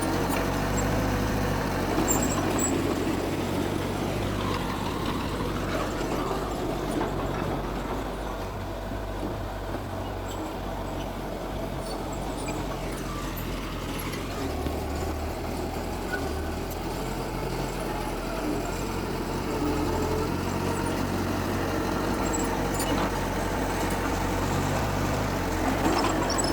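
Diesel engines of heavy earthmoving machinery running steadily, easing off slightly in the middle and working harder again later.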